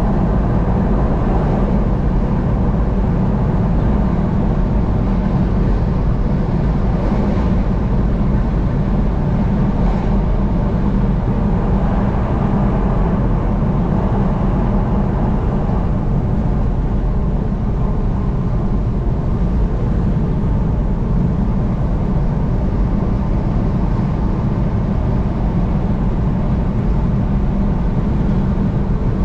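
Steady road noise of a car driving at highway speed: a constant low rumble of tyres and engine with no change in pace.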